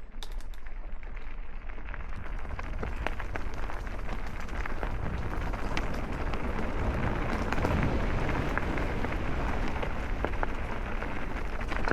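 Mountain bike tyres rolling over a rough woodland path: a steady crunching hiss peppered with small clicks from grit and twigs, with a low rumble underneath. It grows gradually louder.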